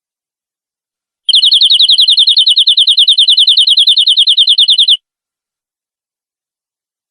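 Domestic canary singing one fast, even trill of about ten repeated notes a second, starting about a second in and cutting off sharply after nearly four seconds. It is canary lure song, played to set caged canaries singing.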